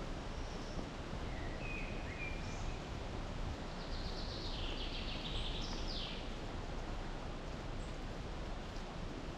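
Small birds calling over a steady outdoor background rush. A few short whistled notes come about two seconds in, then a brief, busier high-pitched phrase of song from about four to six seconds in.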